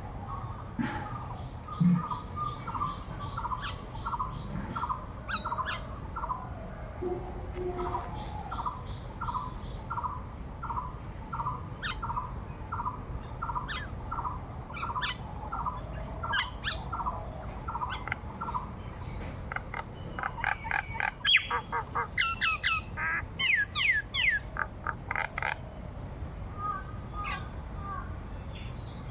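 Birds calling: a short note repeated about twice a second, then a louder burst of quick chattering calls about two-thirds of the way in. A steady high-pitched insect drone runs underneath.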